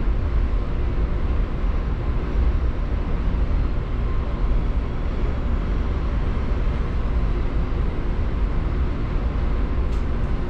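Electric local train heard from inside its rear cab: a steady, heavy low rumble of wheels and running gear on the rails. A few faint clicks come near the end.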